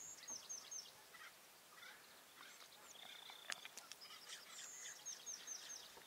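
Faint high-pitched bird chirps: short falling notes in quick series of three or four, near the start and again near the end, with scattered single chirps and a brief thin whistle in the middle.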